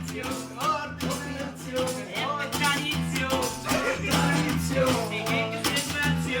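Live improvised song: an acoustic guitar strummed in a steady rhythm, with a voice singing the melody.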